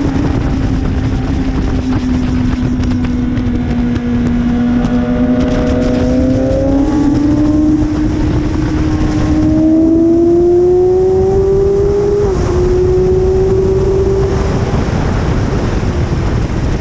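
BMW S1000RR's inline-four engine running hard at speed over heavy wind rush. Its pitch holds low for several seconds, then climbs steadily, breaks briefly about twelve seconds in, and eases off near the end.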